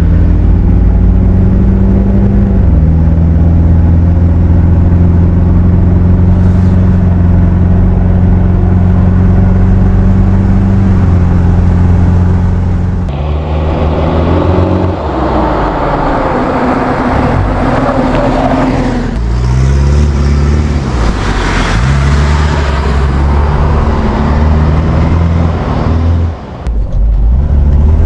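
Mitsubishi Pajero Dakar 4x4 driving off-road, its engine running at a steady note for about the first half. About halfway in a rushing noise comes in over it and the engine revs rise and fall several times, with a short drop near the end.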